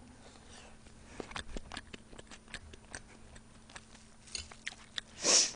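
Close-miked chewing of Andong jjimdak, braised bone-in chicken with vegetables, heard as soft, irregular mouth clicks and smacks. A short hiss comes near the end.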